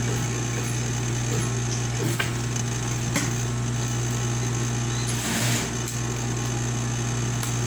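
A steady low machine hum, with a couple of sharp clicks and a brief hiss partway through.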